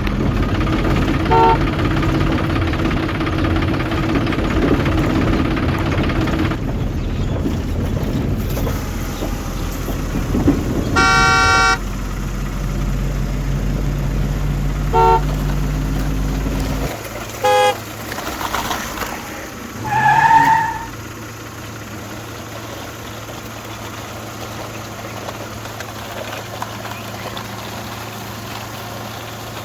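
A horn tooting: short toots a few times and one held for nearly a second, over a steady motor noise that drops to a quieter hum partway through.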